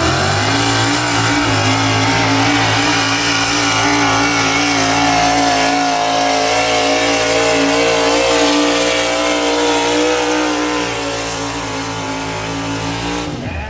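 Pulling tractor's engine running flat out under load during a pull, holding a steady pitch for most of the run. Near the end it drops sharply and cuts off as the run ends.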